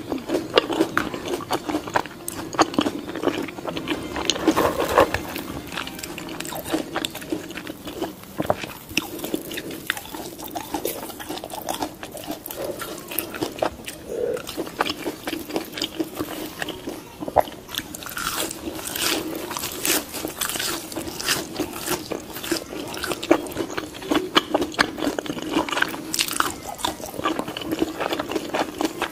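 Close crunching and chewing of crispy roast pork (lechon) with its crackling skin: many short, crisp crunches throughout, over a steady low hum.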